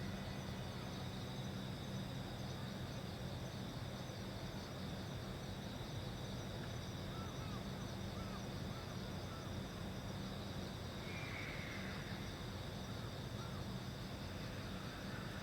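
Steady outdoor ambience with a continuous low hum and a steady high insect trill, with a run of faint short chirps about halfway through and a couple more later.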